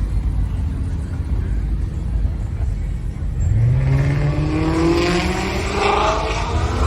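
Car engine running with a low rumble, then about halfway through revving up, its pitch climbing steadily and growing louder.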